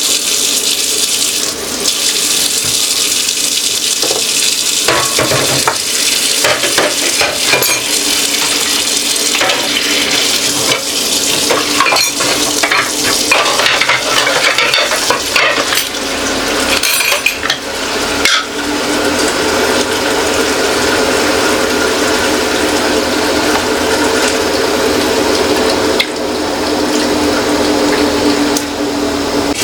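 Kitchen tap water running into a sink while dishes and containers clatter and clink, the water settling into a steadier rush about two thirds of the way through.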